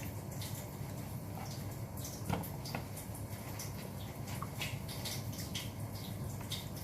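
Close-up eating sounds: wet chewing and lip smacks of someone eating grilled chicken, a scatter of small irregular clicks with one slightly louder click about two and a half seconds in, over a steady low hum.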